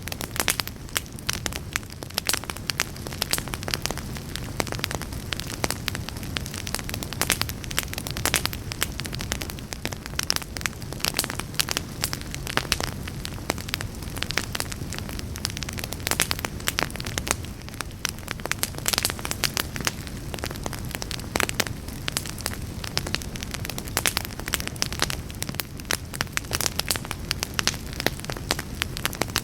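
Fire burning in a fireplace, crackling with many irregular sharp pops over a steady low rush.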